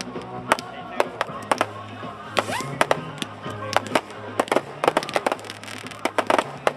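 Fireworks going off in a rapid string of sharp bangs and pops, thicker near the end, with music playing underneath.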